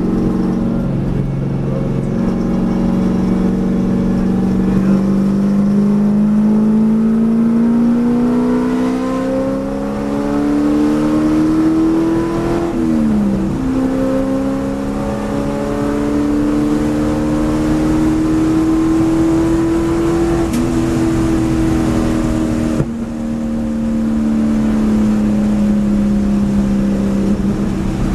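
Race car's engine heard from inside the cabin under hard acceleration. Its note climbs steadily for about twelve seconds, drops sharply with an upshift, then climbs again. It then sinks as the car comes off the throttle for a corner and jumps up with a downshift near the end. A brief knock about 23 seconds in.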